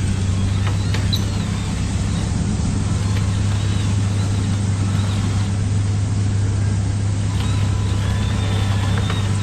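Steady low engine-like drone, holding one pitch with no revving, with faint short high whistles or chirps above it.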